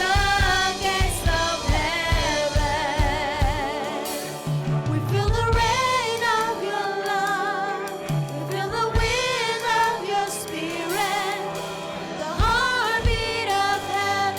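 Live church worship music: voices singing long, wavering notes over the band, with a steady beat that drops out about four seconds in and returns near the end.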